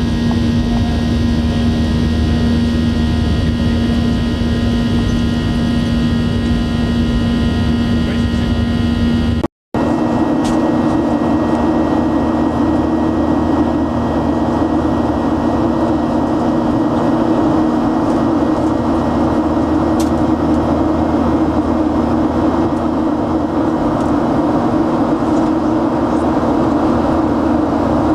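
Steady drone of a jet airliner heard from inside the passenger cabin: engine hum and rushing air. The recording cuts out for an instant about a third of the way in, and after the cut the hum sits a little higher in pitch.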